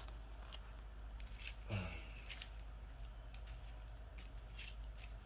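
Faint scattered clicks of hands working on the bike's wiring and switches over a low steady hum. There is no beep from the new controller, which has not powered up.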